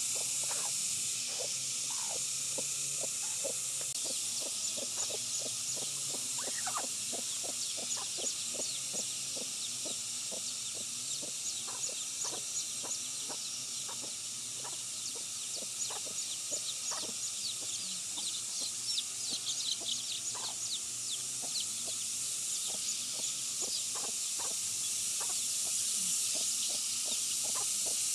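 Chickens clucking, with many short separate calls throughout over a steady high hiss.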